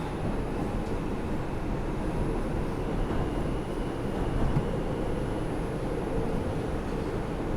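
R142 subway car running between stations, a steady rumble of wheels and motors with a faint high whine over it.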